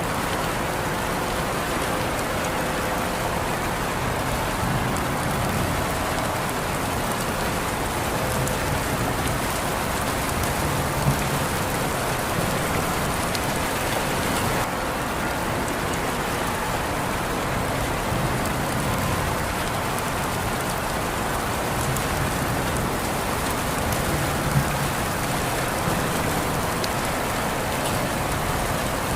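Steady, even rain falling and pattering on surfaces, with a couple of single louder drops striking.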